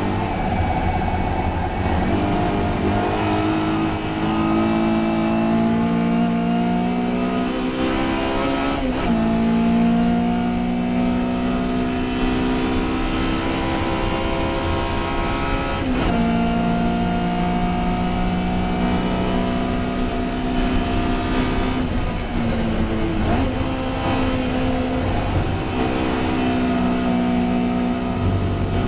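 Historic touring race car engine running hard under load, its pitch climbing slowly and steadily, broken by short dips and recoveries about 9, 16 and 23 seconds in.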